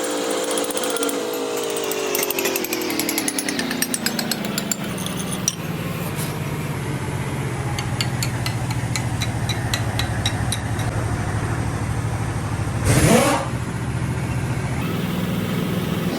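Workshop machine motor winding down in pitch over several seconds, then running on at a steady low hum with a regular clicking. A short louder rush of noise comes about thirteen seconds in.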